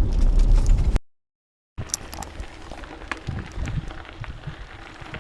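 Steady low rumble of a car interior on the road, cut off about a second in; after a brief silence, faint scattered clicks and crackles with a few low thumps.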